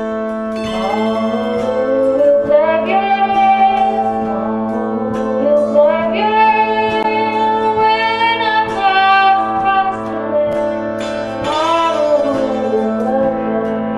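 Stroh violin playing a lilting melody with vibrato and sliding notes over plucked guitar accompaniment and a held low drone note, in a folk/bluegrass-style instrumental break.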